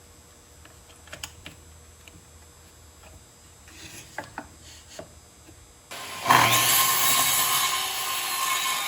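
A few light clicks and rubs of handling, then about six seconds in a sliding miter saw (Hitachi C7FSH) starts up and runs loud and steady through a cut in wood.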